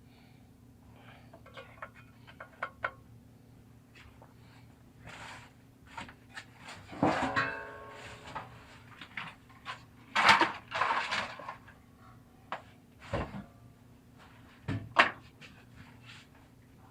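Scattered clicks, knocks and clatter of things being handled, with a louder burst about midway and a short squeaky ring just before it, over a steady low hum.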